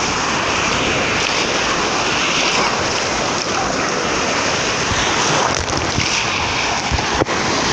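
Steady wash of sea surf, with wind buffeting the microphone and a couple of faint knocks near the end.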